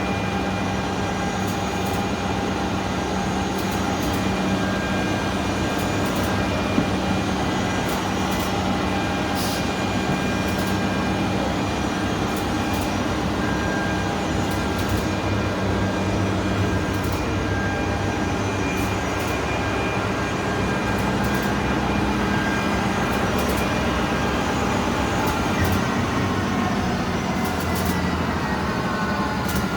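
Bütfering Classic wide belt sander with a 17 kW motor running: a steady machine rumble with a constant whine. The whine eases slightly lower in pitch near the end.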